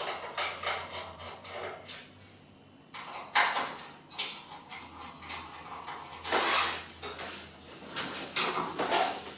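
Hand screwdriver clicking and scraping while backing out the screws of a plastic panel on an espresso machine, with short rattles and scrapes as the plastic panel is handled.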